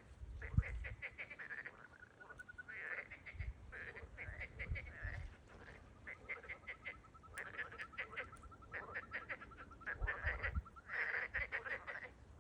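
A chorus of frogs croaking in quick rattling series, with a long even high trill running from about the middle until near the end. A few low thumps sound near the start and around ten seconds in.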